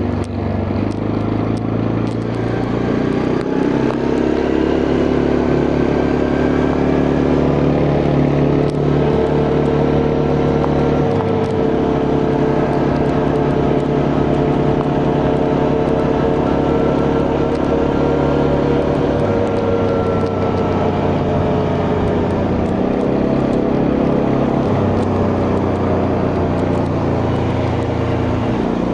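Quad bike engine running under way, loud and steady, its pitch stepping down and back up a few times as the speed changes.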